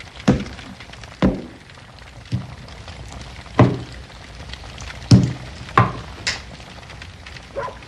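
A series of heavy thunks, one roughly every second at an uneven pace, each with a short ringing tail.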